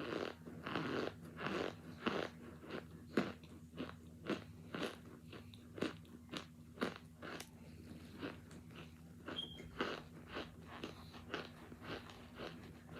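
Hard, frozen chunks of cornstarch being bitten and chewed: a steady run of sharp, dry crunches, about two a second, over a faint low hum.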